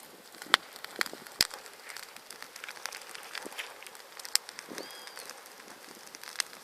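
Large wood bonfire crackling, with sharp snaps and pops at irregular intervals over a low hiss; the loudest pop comes about a second and a half in.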